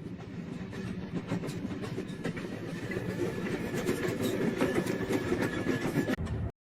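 Train running on the rails: a steady rumble full of rapid wheel clicks, with a thin steady high tone through the middle. It cuts off abruptly just before the end.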